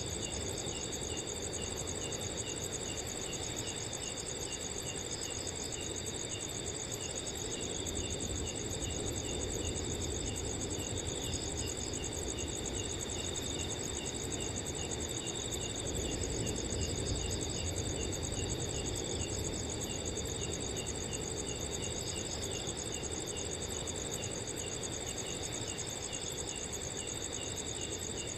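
Several crickets chirping together: a continuous high trill and an evenly repeated chirp at a lower pitch, over a steady low rush of wind.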